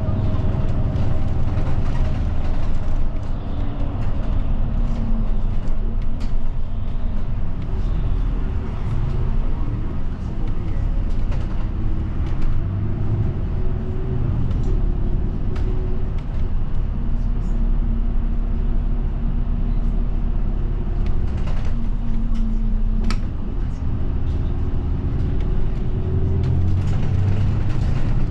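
Route bus heard from inside the cabin: a low engine and road rumble, with the engine's tone rising and falling as the bus changes speed. Short rattles and clicks come through now and then.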